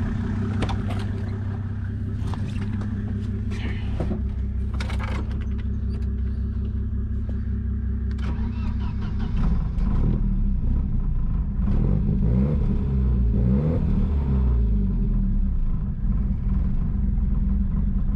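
Volvo 940 Turbo's turbocharged four-cylinder engine idling, then revved up and down several times from about halfway through, with a few sharp clicks in the first five seconds. The engine is running with its new MAF sensor fitted but not yet plugged in.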